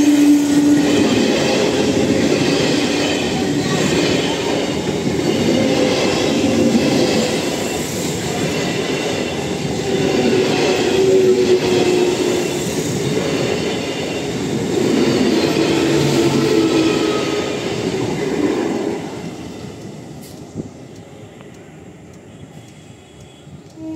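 An electric multiple unit (EMU) suburban local train passing close by at speed, wheels rumbling and clattering over the rails with a squeal, after the tail of a train horn blast in the first second. The noise falls away about 19 seconds in as the last coach passes.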